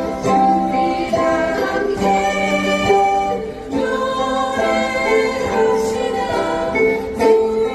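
A group of singers singing in unison to strummed ukuleles.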